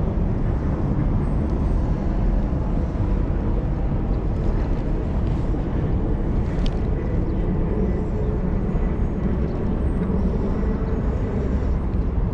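Steady rumble of wind and city traffic heard while riding a bicycle through downtown streets, strongest in the low end.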